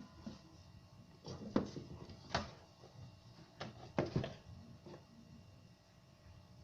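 Several short knocks and clicks, a few seconds apart, the sound of objects being handled.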